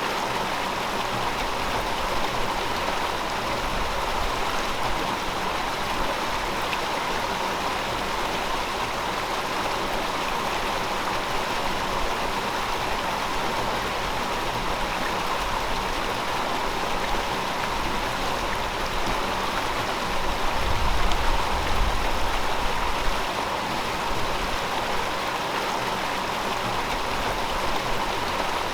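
River water flowing steadily over rocks, an even rushing wash. A brief low rumble swells about three-quarters of the way in.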